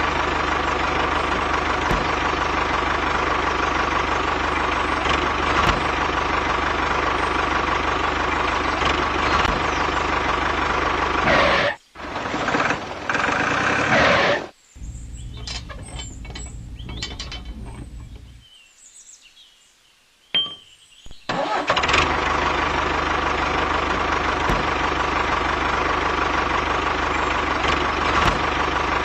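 A small motor running steadily with a steady whine. It cuts out briefly about twelve seconds in, runs quieter a few seconds later, falls almost silent for a few seconds, then starts up again and runs steadily to the end.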